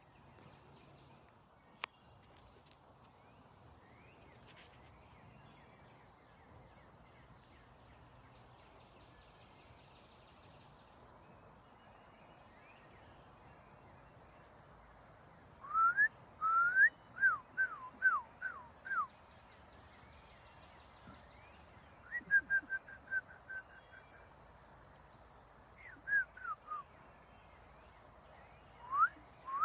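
A songbird singing repeated phrases of quick whistled notes, some sweeping up and others down, with one rapid even trill; the singing starts about halfway through. Underneath runs a steady, thin, high-pitched tone.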